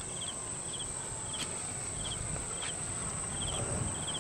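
Insects chirping: a steady, very high-pitched trill, with a short triple chirp repeating about every half second, over a low rumble.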